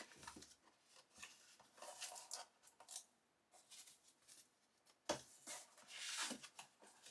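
Packaging being handled and opened: light rustling and scraping with small clicks and taps, and a longer rustle a few seconds in.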